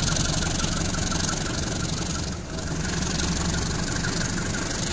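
Passenger train coaches rolling past close by as the train pulls away from its stop: a steady low rumble of wheels on rails, dipping briefly about two and a half seconds in.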